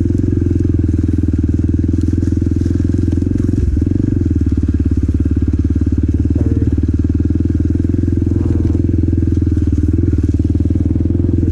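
Motorcycle engine with a loud exhaust running at a low, steady speed, with a brief change in its note about four seconds in.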